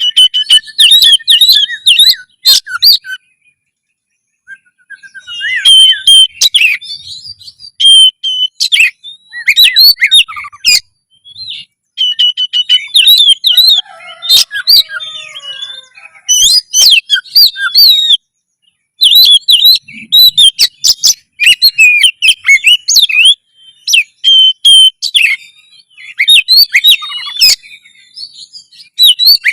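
Oriental magpie-robin (kacer) singing loud, rapidly varied whistled phrases in bursts a few seconds long with short pauses between. This is the full, energetic 'gacor' song of a bird in fighting mood.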